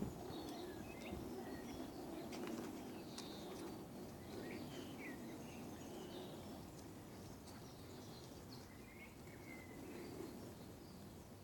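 Small birds chirping and twittering in short, scattered phrases, faint over a steady low background noise of the outdoors.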